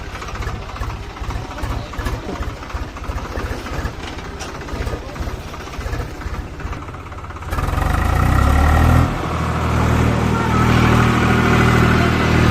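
Tractor diesel engine running with a rapid, even low chugging. About seven and a half seconds in it gets louder and climbs to a steady, higher-revving drone.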